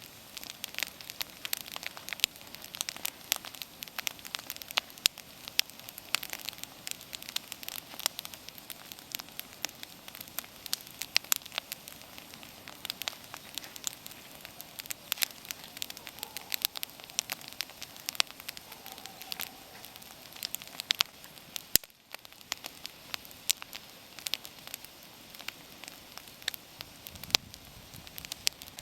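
Wood campfire burning, the wood crackling and popping in many sharp irregular snaps over a faint steady hiss.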